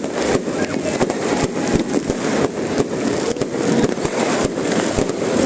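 New Year's fireworks going off, with many sharp bangs and cracks at irregular intervals, several a second, over a steady loud background din.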